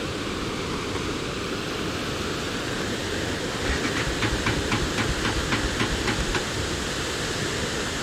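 Steady rushing wind and road noise while riding a motorcycle. About halfway through, a run of rapid ticks, roughly four to five a second, lasts a few seconds.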